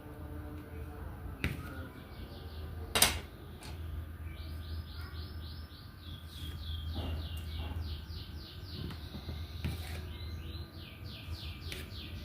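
A bird chirping in a long run of quick, falling notes, several a second, starting about four seconds in. A low steady hum runs underneath, and there are a few sharp clicks, the loudest about three seconds in.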